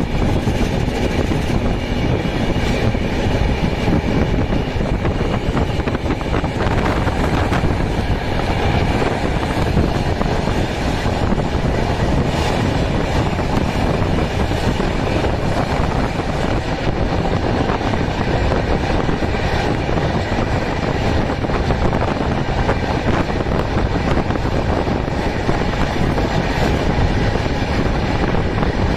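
Steady rumble and rattle of a moving passenger train heard from on board, the wheels running on the rails with faint clicks from the rail joints.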